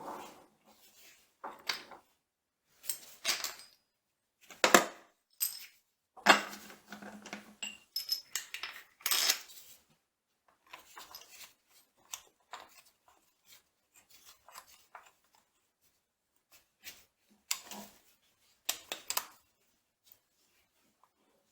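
Irregular metallic clinks and knocks of steel tools and gear-train parts being handled and tapped while a milling machine's drive shaft is being dismantled, the sharpest strikes about five and six seconds in.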